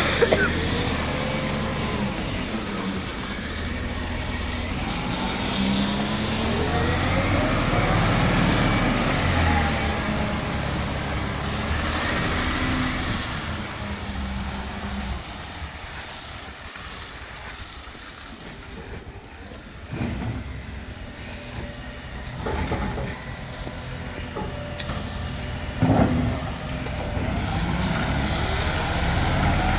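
Rubbish collection truck's diesel engine running and revving, its pitch rising and falling, then easing off before a few sharp knocks about two-thirds of the way through and again near the end.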